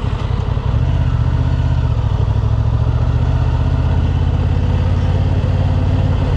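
Honda Transalp's 755 cc parallel-twin engine running steadily at low, idle-like revs.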